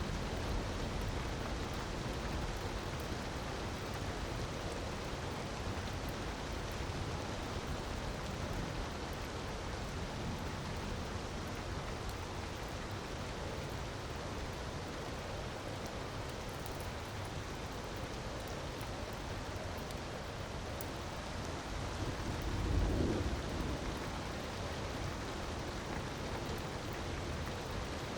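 Steady rushing hiss of falling water, with faint fire crackles over it. About 22 seconds in, a low rumble swells and fades.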